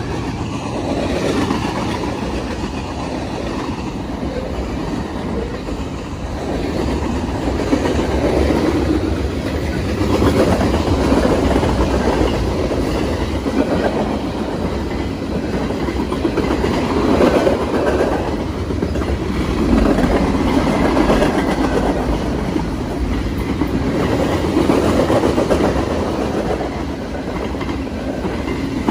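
Freight cars rolling past on steel wheels: a steady rumble with clickety-clack over the rail joints, swelling every couple of seconds as each set of wheels goes by.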